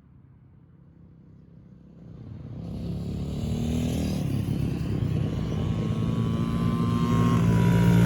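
Two small kids' dirt bikes racing flat out, a Yamaha PW50 two-stroke and a Honda CRF50F four-stroke. Their engines come up from faint about two seconds in and grow steadily louder as they approach, with a high engine note rising in pitch.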